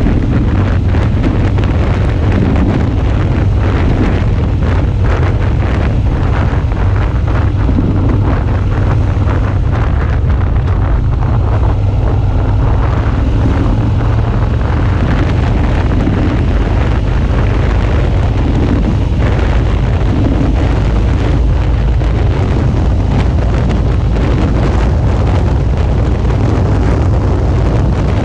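Steady, loud wind buffeting on a motorcycle-mounted action camera's microphone while riding, over the low drone of a Suzuki V-Strom 650's V-twin engine.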